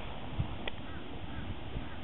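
Steady outdoor background noise with a few faint, short bird calls in the distance.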